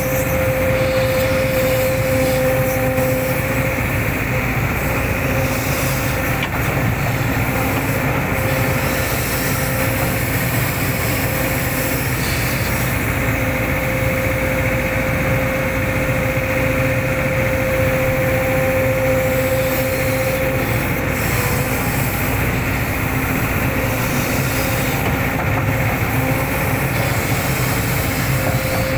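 Hitachi hydraulic excavator running under work, the engine steady, with a whine that rises out of it for several seconds at a time and then drops back.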